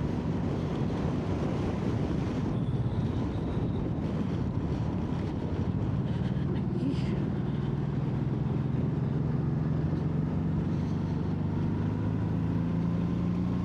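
Motorcycle engine running steadily at road speed under wind rush on the microphone, its note rising slightly over the second half as the bike speeds up.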